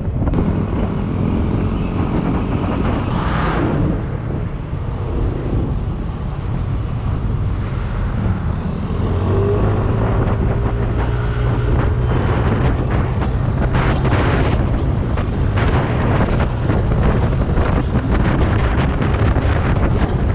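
Yamaha Aerox 155 scooter's single-cylinder engine running steadily under way, with wind buffeting the microphone in gusts.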